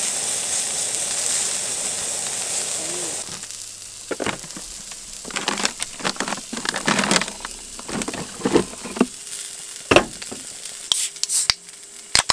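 Hamburger patties sizzling steadily on a hot steel griddle, which cuts off abruptly after about three seconds. Then come clinks and rustling from bottles and packages being handled in a portable fridge. Near the end, aluminium beer cans click and hiss as their tabs are pulled open.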